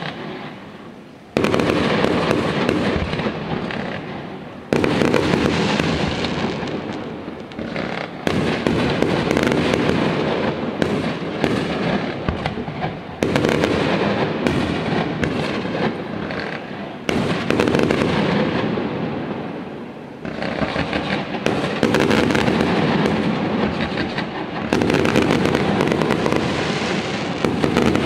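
A fireworks display: a continuous barrage of bursting shells and dense crackling. Fresh volleys break in sharply every few seconds and fade between them.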